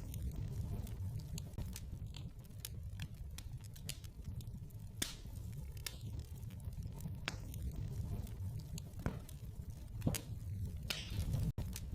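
Wood fire in a fireplace crackling: irregular sharp pops and snaps over a low steady rumble of flames, with a louder snap about ten seconds in.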